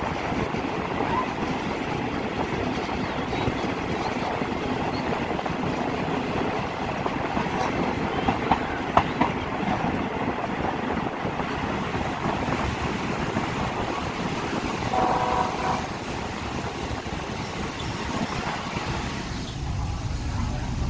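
A passenger train running at speed, heard at its open window: steady rumble of wheels on rails with rushing air, and a couple of sharp knocks a little before the middle. About three-quarters through a brief horn blast sounds, and near the end the sound turns duller and lower.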